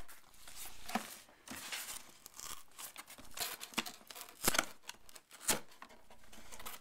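Cardboard box being worked open by hand, with irregular scraping, rubbing and tearing sounds and a few sharp clicks as the tight box is forced.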